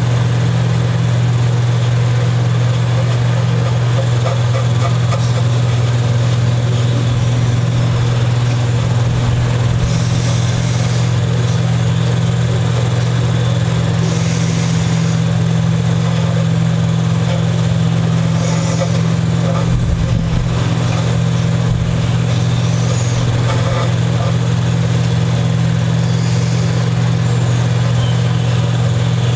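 A steady low machine hum, unchanging throughout, with faint brief hisses every few seconds.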